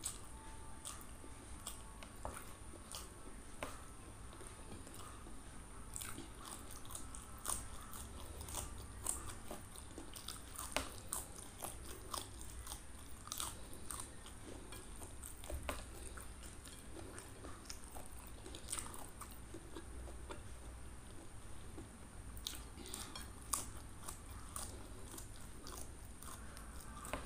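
Close-up mouth sounds of a person chewing and biting raw green vegetables and rice, with many sharp crunches scattered irregularly through the chewing. A faint steady high whine runs underneath.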